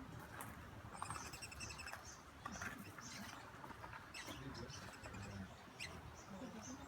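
Hummingbirds chirping: many short, high-pitched chirps and twitters scattered throughout, with a quick run of rapidly repeated notes about a second in.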